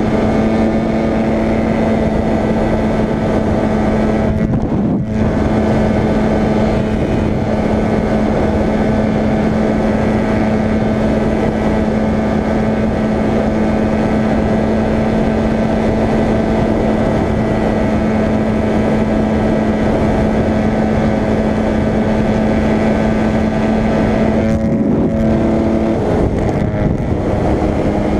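Motorcycle engine running at steady high revs under heavy wind rush, with a brief break about five seconds in and a shift in engine pitch near the end.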